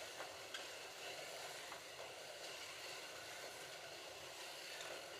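Slot cars running around the track, a steady whir of their small electric motors with a few faint clicks.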